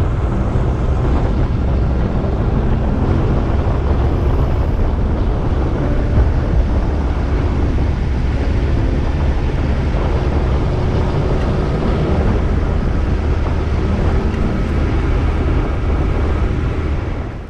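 Yamaha YZF-R1's inline-four engine running at a steady pitch while the bike is ridden, under loud wind and road noise.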